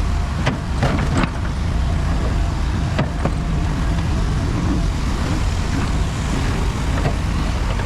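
Diesel engine of heavy earthmoving equipment running steadily under work, with several sharp knocks in the first seconds and a couple more later.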